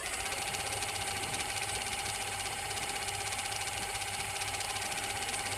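Ceiling fan motor running steadily with an even hum and a steady high tone, with no knocking or rattling: its loose bearing has been fixed in place with Fevikwik instant glue instead of being replaced.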